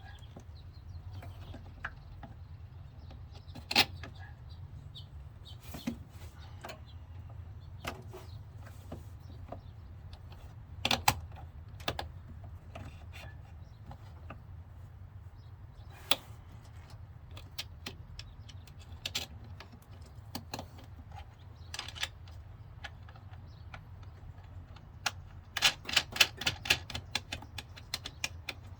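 Scattered sharp clicks and taps of hands working on truck wiring and hardware, with a fast run of rapid clicks near the end, over a steady low hum.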